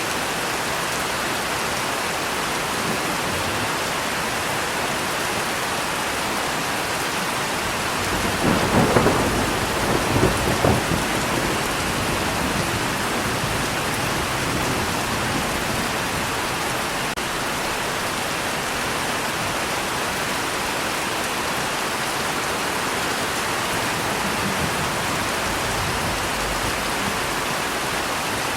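Steady heavy rain falling, with a roll of thunder rumbling and crackling about eight to eleven seconds in.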